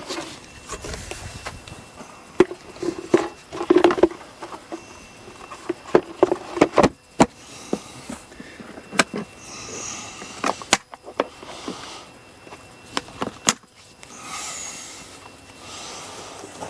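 Wiping down the outside of an outboard motor by hand: short stretches of cloth rubbing over the engine cover, with scattered sharp clicks and knocks from handling.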